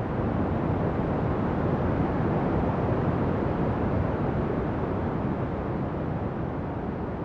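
Ocean surf: a continuous low wash of waves that swells slightly a couple of seconds in and eases off toward the end.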